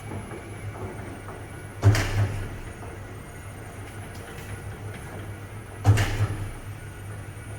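Filled-bun production machine running with a steady low hum, with two loud clunks about four seconds apart, each followed by a brief rattle.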